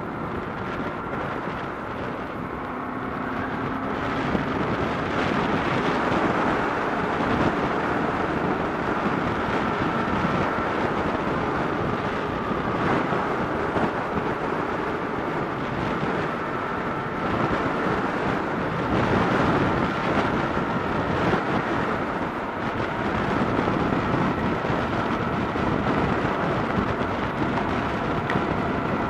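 Strong wind rushing over the microphone of a Kawasaki KLR650 motorcycle at speed, with the bike's single-cylinder engine and road noise running steadily underneath. It gets louder about four seconds in.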